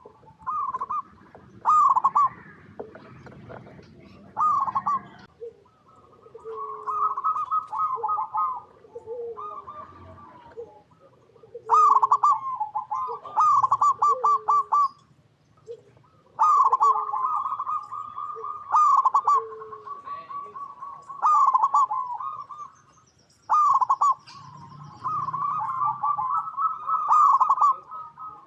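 Zebra doves cooing: repeated bursts of quick, rattling coo notes every couple of seconds, several birds overlapping, with short lower notes in between and faint high chirps from small birds.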